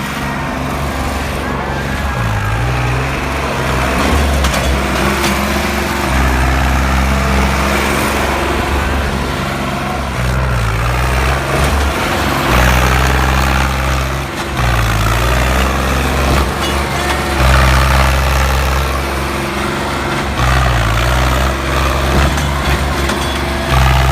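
Diesel tractor engines running loud and steady under heavy load, their pitch dropping and recovering every few seconds.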